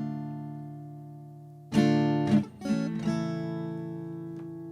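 Acoustic guitar playing the closing chords of a song: chords strummed and left to ring, with a fresh strum about two seconds in and another shortly after, each fading slowly.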